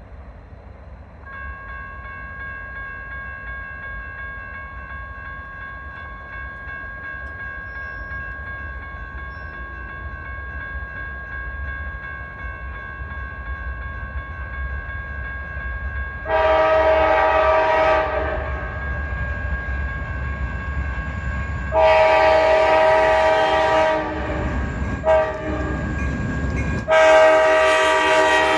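Locomotive horn on an Ohio Central SD40-2 sounding the grade-crossing signal in the second half: long, long, short, long, the last still sounding at the end, over the rising rumble of the approaching diesel locomotives. A steady high ringing, the crossing signal bell, starts about a second in.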